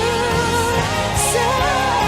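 A female voice singing a slow pop ballad, holding and bending notes with vibrato and ornamented runs over steady accompaniment.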